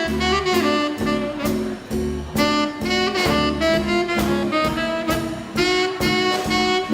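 Live swing band playing an instrumental: saxophone and brass carrying the melody over upright-style bass and a drum kit keeping a steady beat.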